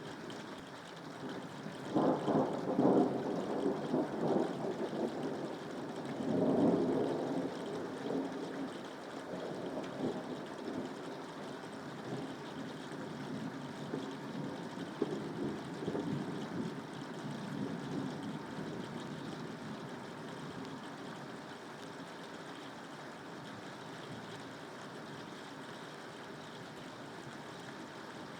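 Steady rain with thunder rumbling: two loud rolls a few seconds in, weaker rumbles after, then easing to steady rain alone.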